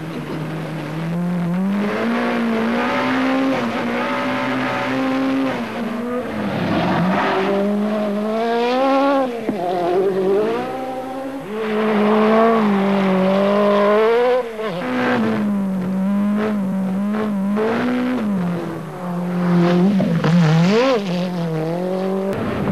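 Group B rally car engine at full race pace, its pitch climbing and then dropping back in steps as it shifts up through the gears, with quick rises and falls in revs between bends.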